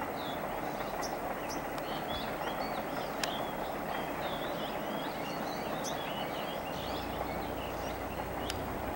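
A distant passenger train climbing a forested grade, heard as a steady rumble that grows a little deeper near the end. Birds chirp and call over it.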